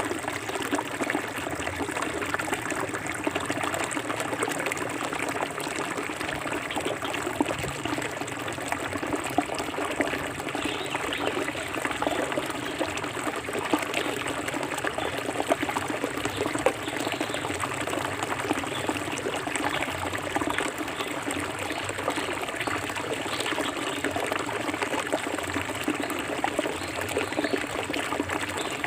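Forest stream flowing over rocks, a steady splashing and trickling with many small bubbling ticks.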